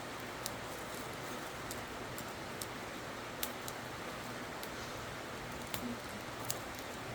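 Wood campfire burning with a steady hiss and about half a dozen sharp crackles and pops scattered through it.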